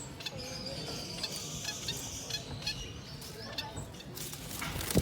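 Many small caged birds chirping and trilling, with high short calls and a buzzy trill over a low hall hum. A single sharp knock comes just before the end.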